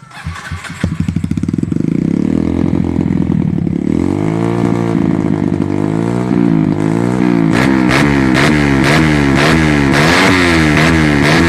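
Kawasaki KLX150/D-Tracker 150 single-cylinder four-stroke engine running through a GP7 RS aftermarket exhaust. It runs steadily, revs up and down once about four seconds in, then from about halfway through is blipped repeatedly, about two quick revs a second.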